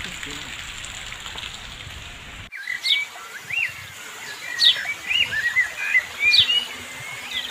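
A bird singing: clear whistled phrases that rise and fall, with quick high downward sweeps, repeated through the second half. Before it comes a steady outdoor hiss that cuts off abruptly about two and a half seconds in.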